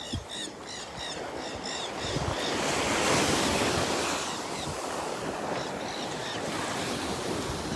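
Small surf washing onto a beach, swelling about three seconds in, with some wind on the microphone. Short high chirps come in quick runs near the start and again past the middle.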